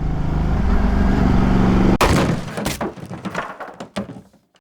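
Motorcycle engine running steadily with a pitched drone, cut off about two seconds in by a sudden crash, followed by scattered clattering that fades away to silence.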